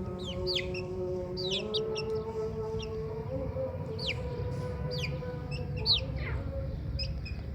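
Baby chicks peeping, a stream of short high peeps that each slide quickly downward in pitch, several overlapping, over a steady low background hum.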